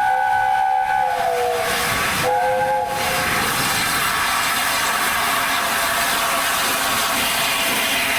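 Steam locomotive whistle of several notes sounding together, dropping in pitch as it ends about a second and a half in, then a short second blast. After that comes a steady loud hiss of escaping steam.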